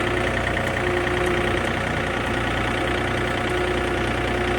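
John Deere tractor engine running steadily, with a steady hum and a faint held tone above it.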